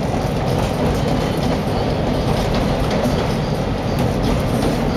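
Chicago Blue Line rapid-transit train running at speed, heard from inside the car: a steady rumble of wheels on the rails with scattered faint clicks.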